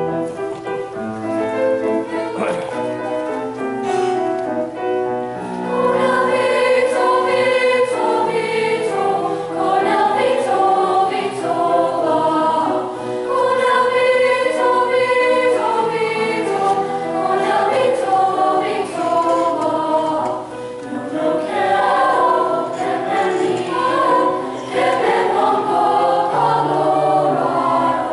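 Junior high school choir singing a choral piece, many voices on sustained, changing notes.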